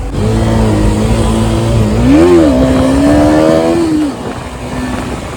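Motorcycle engine running at steady revs under way. About two seconds in it gives a quick rev up and back down, then holds slightly higher, climbing a little. The engine note drops away about four seconds in.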